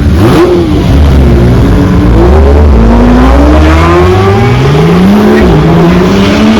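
A performance car's engine revving and accelerating hard, loud. Its pitch rises and falls a few times, climbs steadily for about two seconds, drops briefly about five seconds in, then climbs again.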